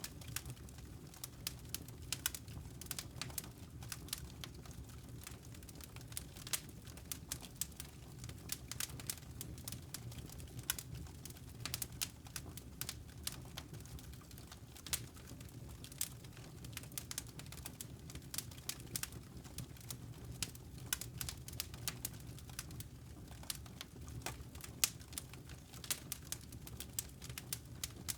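Wood fire crackling in a fireplace: irregular sharp pops and snaps of varying loudness over a low, steady background.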